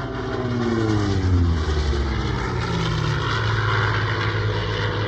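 Hawker Sea Fury's Bristol Centaurus 18-cylinder sleeve-valve radial engine and propeller passing in flight. The pitch falls over the first three seconds as it goes by, then the engine sound holds steady.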